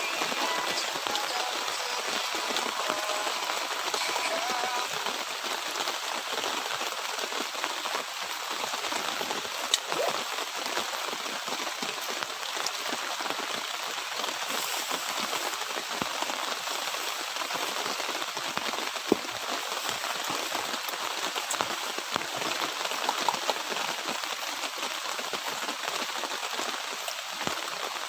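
Steady patter of light drizzle, with a few sharp ticks now and then.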